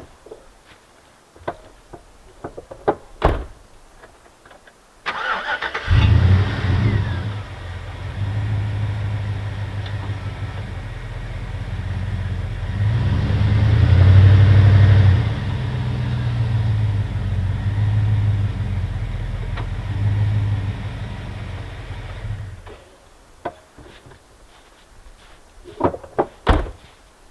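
An engine starts up about five seconds in and runs with a strong low hum, its speed rising and falling a little, then cuts off abruptly. There are scattered light knocks before and after it.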